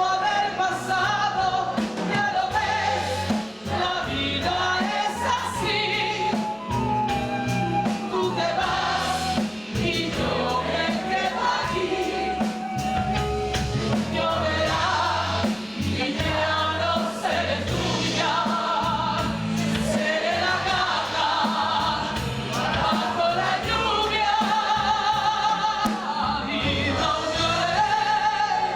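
Music: a woman singing a ballad with band accompaniment, her voice holding long, sliding notes over a bass line.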